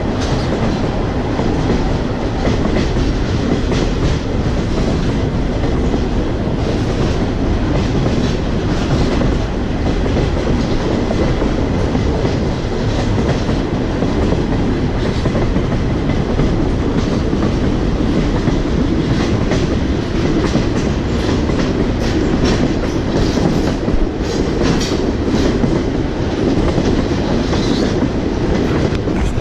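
Railroad car rolling along the track, heard from aboard a caboose: a steady rumble of wheels on rail, with sharp clicks and rattles over the rail joints that come thicker in the last third.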